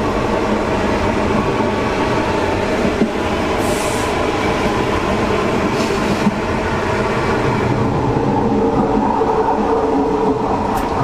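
Thai overnight sleeper train running along the track, heard from inside a carriage: a steady, loud rumble of wheels on rail and carriage noise.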